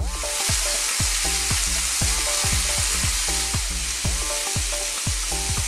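Marinated chicken kebabs sizzling steadily in a hot ridged grill pan as they brown, with background music and a steady beat underneath.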